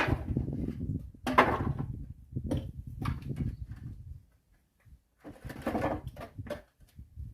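Axe splitting firewood: a sharp strike right at the start and another about a second later, each followed by cracking and clattering wood, then scattered knocks of split pieces.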